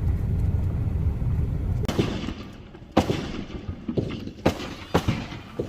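Fireworks going off: six sharp bangs, roughly a second apart, beginning about two seconds in. A low rumble runs underneath during the first two seconds.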